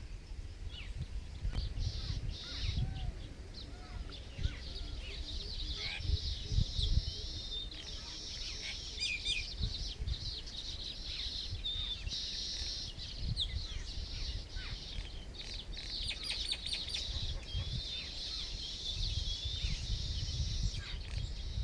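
Several birds chirping together in many short, overlapping chirps and quick rising and falling notes, over a low rumble.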